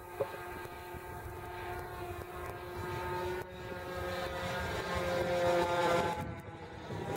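Radio-controlled model airplane's engine buzzing in flight. About halfway through it rises in pitch and gets louder, then drops back in pitch near the end, as a pass goes by.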